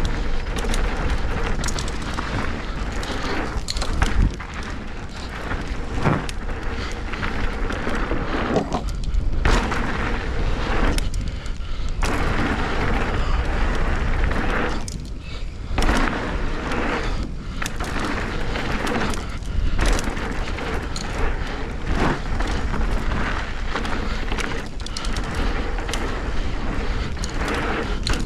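Mountain bike riding fast down a dirt downhill trail: a continuous rush of wind and tyre noise, with frequent knocks and thumps from bumps and landings and a few brief lulls.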